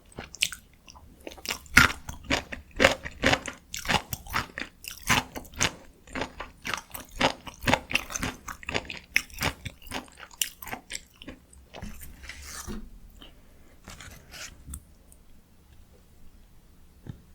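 Close-miked chewing of dakgalbi, spicy stir-fried chicken: a quick, dense run of wet mouth clicks and crunches that thins out about twelve seconds in and dies away a couple of seconds later.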